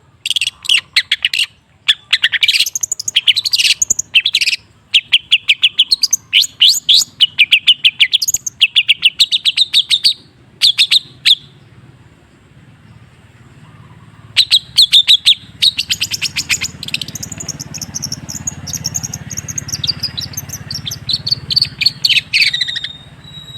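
Long-tailed shrike singing: bouts of fast, harsh repeated notes with short breaks, a pause about twelve seconds in, then a longer, more varied run of higher chattering notes.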